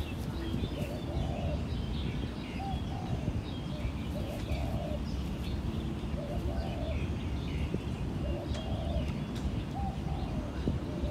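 Birds calling: a low call repeated about every one and a half to two seconds, with scattered higher chirps, over a steady low rumble.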